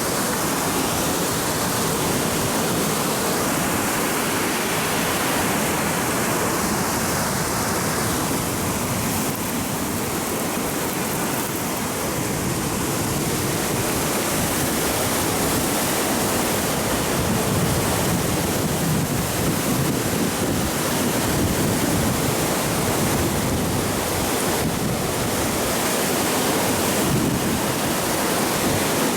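Steady rushing noise of typhoon wind and water, with wind buffeting the microphone in uneven low gusts.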